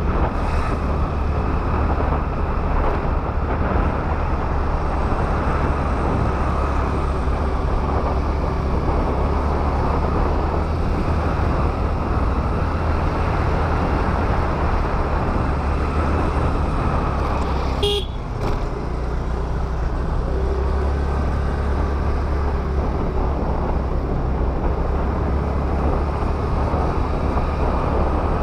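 Steady rush of wind and road noise while riding a Honda Activa scooter, with a brief sharp interruption about two-thirds of the way through.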